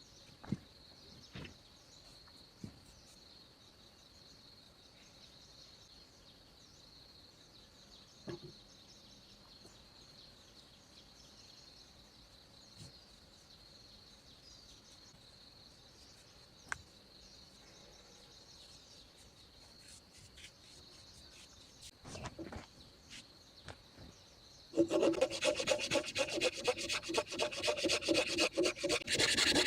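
A steady high insect drone with a few scattered knocks, then, near the end, loud, rapid, rhythmic scraping as wood is worked by hand.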